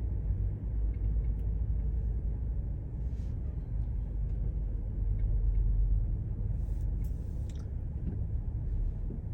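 Steady low rumble of a car driving in traffic, heard from inside the cabin.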